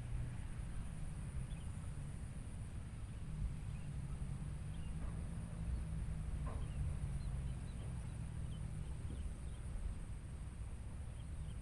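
Outdoor nature ambience: a steady low rumble with scattered faint, short bird chirps and a thin steady high hiss.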